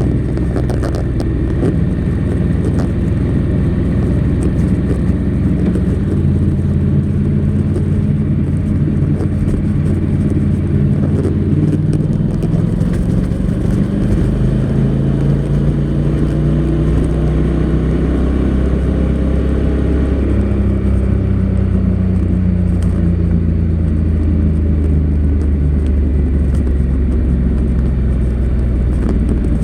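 Honda NC700X's 670 cc parallel-twin engine on its stock exhaust, running under way at steady moderate revs. The engine note steps to a new pitch about six seconds in, and again a few times later, as the dual-clutch gearbox changes gear.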